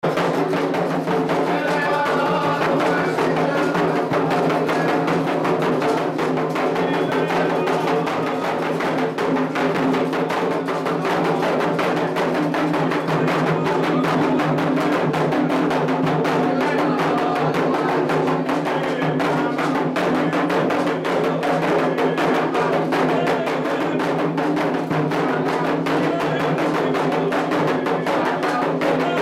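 Candomblé ritual drumming: atabaque hand drums played in a dense, unbroken rhythm with a struck metal bell, accompanying the dance for Oxalá.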